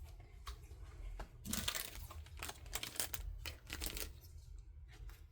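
Plastic and cardboard product packaging crinkling as it is handled, a few light clicks and then a dense run of crackles from about a second and a half in until about four seconds in.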